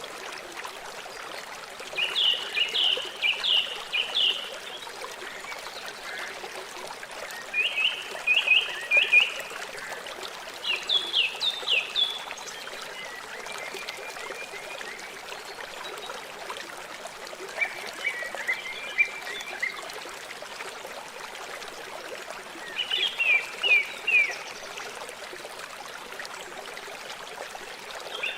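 River water flowing steadily, with a small bird repeating a short phrase of rapid, falling notes every few seconds.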